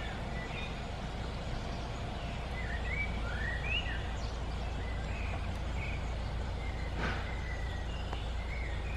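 Small songbirds chirping and warbling on and off, over a steady low rumble of outdoor background noise.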